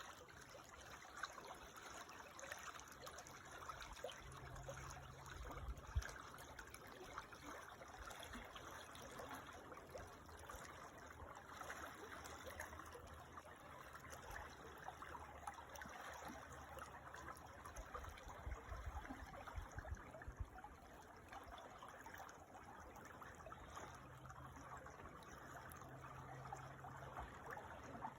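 Small creek trickling and babbling steadily over stones, faint.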